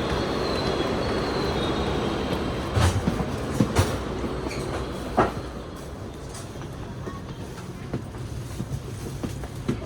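West Kyushu Shinkansen Kamome train noise: a steady rumble with a faint high squeal in the first couple of seconds. A few sharp clacks come between about three and five seconds in, and the rumble then settles quieter.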